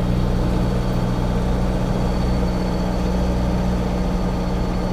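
Semi truck's diesel engine idling, a steady low hum that does not change in pitch.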